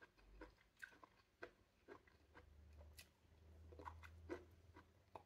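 Faint, scattered wet clicks and smacks of pomelo being eaten: the membrane pulled off a segment and the juicy flesh chewed.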